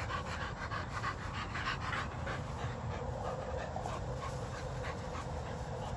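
American Bully puppy panting fast and hard, about four or five breaths a second, growing fainter in the second half.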